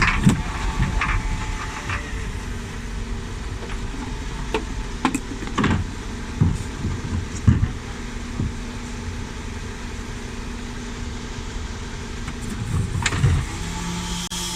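Dennis Elite 6 refuse truck running, with a steady drone and several sharp knocks and clatters about five to eight seconds in, typical of wheelie bins being handled at the lift.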